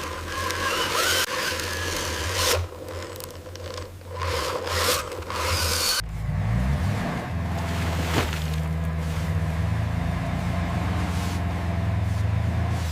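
A low engine drone with scraping and rubbing noises over it, then an abrupt change about six seconds in to a steadier, lower engine hum.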